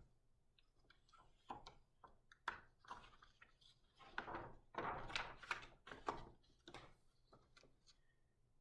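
Faint irregular rustling, tapping and soft knocks of a large picture book's pages being handled and turned.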